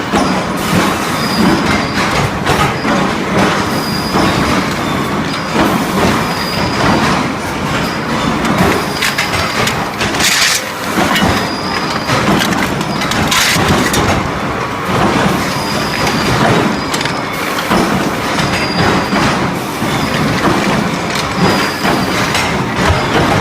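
Automatic induction rod-heating line running: steel rods rattling and clanking through the feeder and rollers in a steady mechanical clatter, with a short high tone recurring every second or two.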